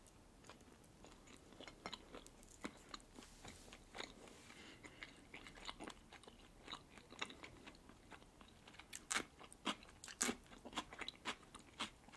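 Quiet, close-miked eating sounds: a red-caviar sandwich on white bread being chewed with soft wet clicks. In the second half come louder, crisper crunches as a slice of fresh cucumber is bitten.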